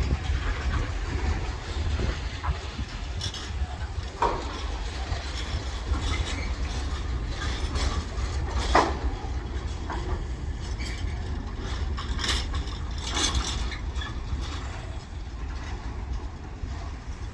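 Electric train moving through a station: a steady low rumble with scattered clicks and a couple of short squeals.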